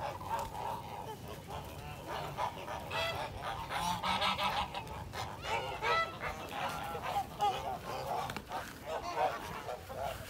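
Several geese honking and calling over one another in short, overlapping calls.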